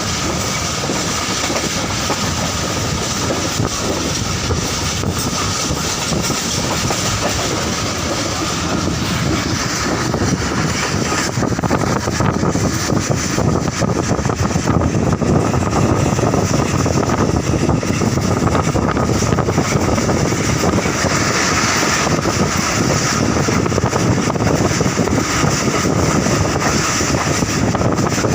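Passenger train running at speed, heard from aboard: a steady rumble of wheels on track, growing slightly louder about a third of the way in.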